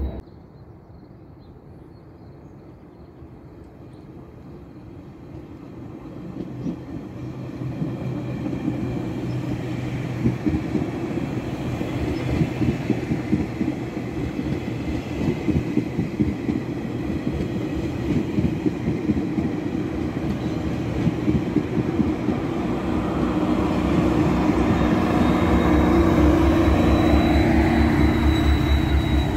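A GO Transit commuter train passing close by, its bi-level coaches' wheels clicking rapidly over the rails as it gets steadily louder. Near the end the MP40 diesel locomotive comes past and its engine hum becomes the loudest sound.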